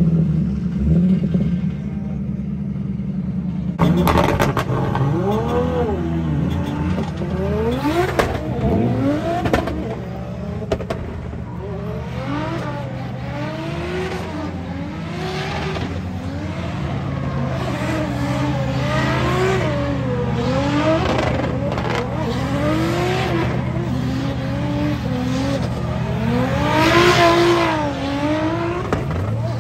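Drift car's engine revving hard and dropping back over and over as it slides, the pitch rising and falling about once every one to two seconds from about four seconds in.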